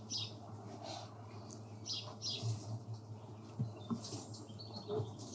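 Faint bird chirps, short high notes coming every second or so, over a low steady hum.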